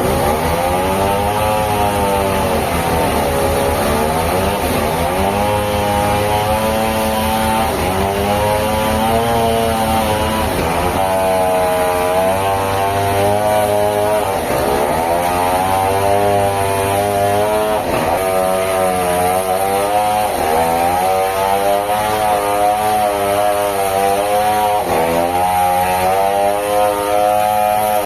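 Engine-driven sawmill saw running hard. Its pitch repeatedly dips sharply and climbs back every few seconds.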